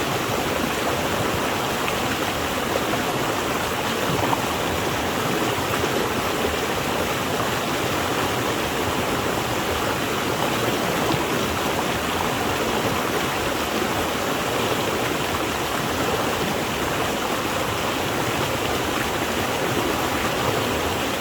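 Flowing water rushing steadily, a continuous even splashing of a stream or small waterfall.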